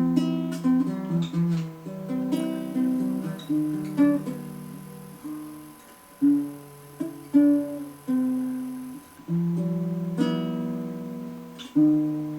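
Mini acoustic guitar playing a slow chord progression: chords strummed or plucked about once a second and left to ring out.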